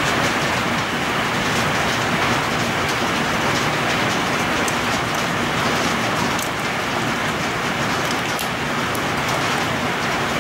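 Heavy storm rain pouring steadily onto trees and surfaces: a dense, even hiss with scattered sharp ticks of harder impacts.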